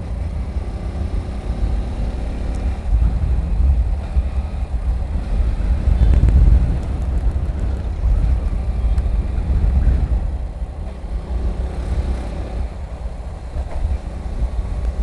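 Motorcycle riding at speed, heard through a helmet microphone: heavy wind noise buffeting the mic over the bike's running engine, swelling about six seconds in.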